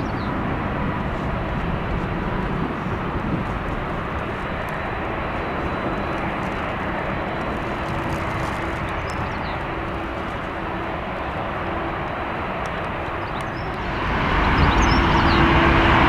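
Jet airliner engines during take-off, a steady rumble that grows suddenly louder near the end.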